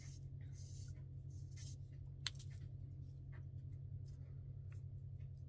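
Faint rustling and light ticks of paper and fabric scraps being handled and placed by hand, with one sharper tap about two seconds in, over a steady low hum.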